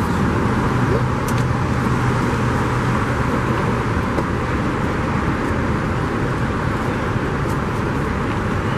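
Steady motor-vehicle noise: an even rush with a constant low hum running under it.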